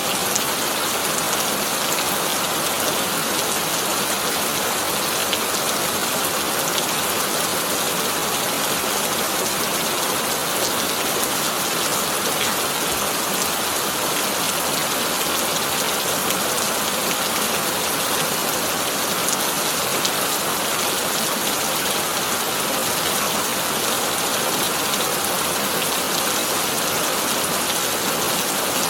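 Heavy rain drumming steadily on a corrugated tin roof: a dense, even hiss made of countless fine drop impacts.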